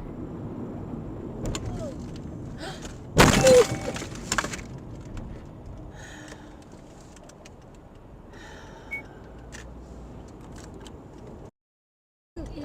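A sudden loud crash about three seconds in, with smaller knocks after it, over steady low road noise.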